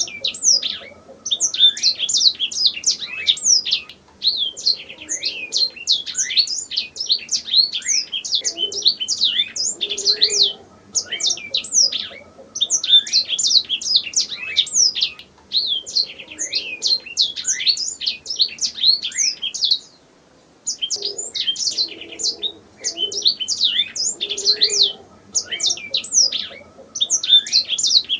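Domestic canary singing long, rapid phrases of trills and quick sweeping notes, broken by short pauses, with a brief gap about twenty seconds in.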